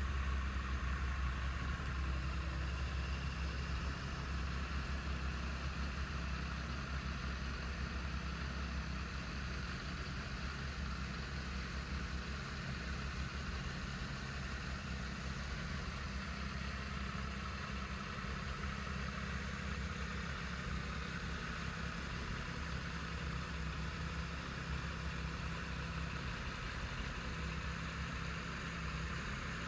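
Triumph Tiger 1200's three-cylinder engine idling steadily.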